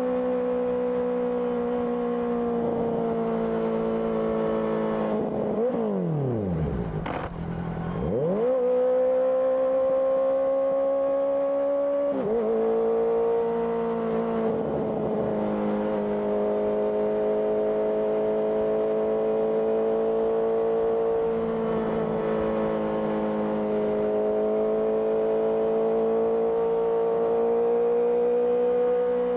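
Honda CBR650R's inline-four engine running at a steady pitch through an IXIL IXRACE exhaust while riding. About six seconds in the engine note drops sharply and climbs back within two seconds, then holds steady again.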